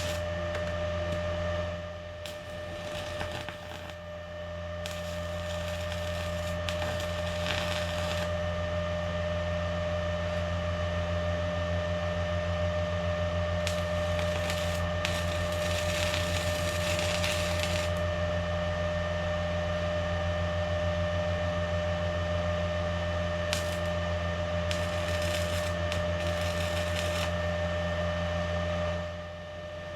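Electric welding arc crackling in four bursts of a few seconds each, over a steady hum that drops away near the end.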